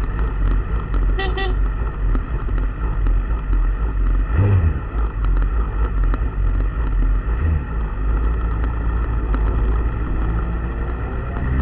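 Motor vehicle engine running at low revs, with a short horn toot about a second in and a brief blip of revs around four and a half seconds.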